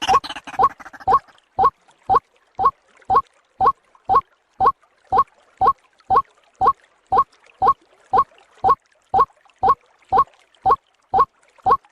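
White-breasted waterhen (ruak-ruak) call played as a bird-trapping lure: a short, slightly rising hoarse note repeated evenly, about twice a second, with each call identical.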